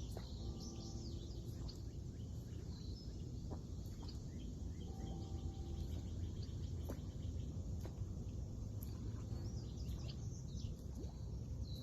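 Outdoor ambience of birds chirping in short, scattered calls over a steady low rumble, with a few faint clicks.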